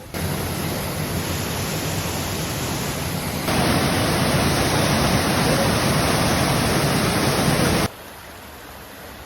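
Waterfall, a steady rush of falling water, heard in two edited shots: it gets louder about three and a half seconds in and cuts off abruptly near eight seconds.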